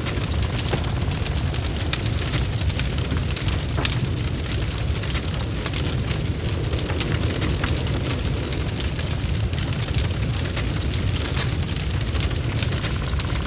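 Wood fire crackling: a steady low rumble of flames with frequent sharp crackles and pops.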